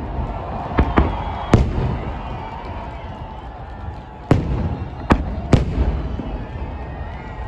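Fireworks salute shells bursting: six sharp bangs in two clusters, the first three in the opening two seconds and three more from about four to five and a half seconds in, each followed by a rumbling echo that dies away.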